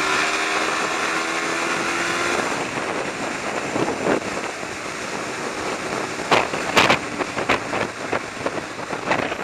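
Yamaha XJ600 inline-four motorcycle under way, its engine note steady for the first couple of seconds, then mostly covered by wind rushing over the rider's microphone, with irregular buffeting gusts.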